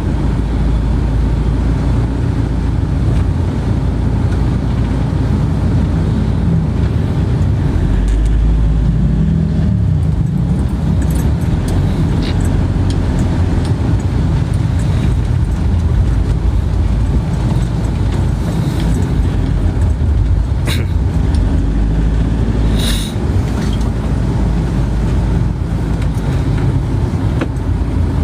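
Steady low rumble of vehicle noise, like a car on the move, with a brief click about 23 seconds in.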